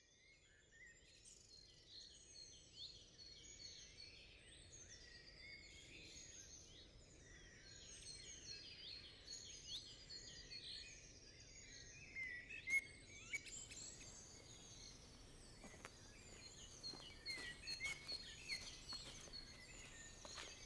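Woodland birdsong: several birds chirping and trilling together, fading in at the start. In the last few seconds, short snaps and crunches, like footsteps on twigs and leaf litter.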